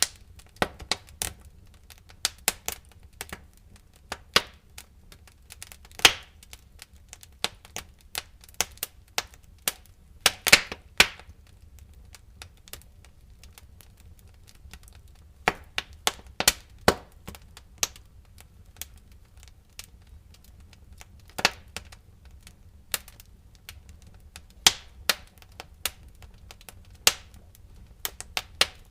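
Firewood burning in a fireplace, crackling and popping irregularly, with a few louder snaps in clusters, over a faint low rumble.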